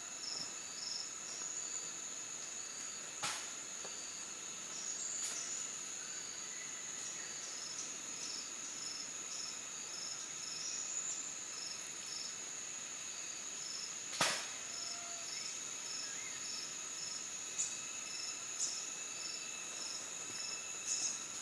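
Insects chirping: a steady high-pitched trill, with a pulsed chirp repeating about twice a second beneath it. Two sharp clicks come about 3 seconds and 14 seconds in.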